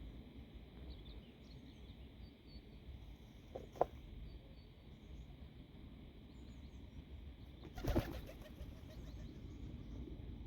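Quiet outdoor ambience: wind rumbling on the microphone with faint bird chirps scattered throughout. There is a sharp click about four seconds in and a brief, louder fluttering rustle about eight seconds in.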